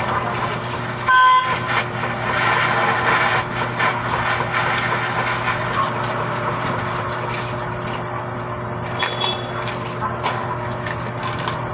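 Busy street noise with a steady low hum from traffic. About a second in, a short, loud beep, like a vehicle horn.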